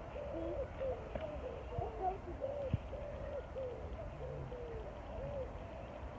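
A flock of geese calling: many short, arched honks overlapping, several a second.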